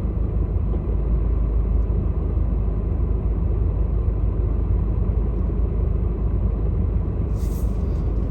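Steady low rumble of strong storm wind buffeting the microphone, with a short burst of higher hiss near the end.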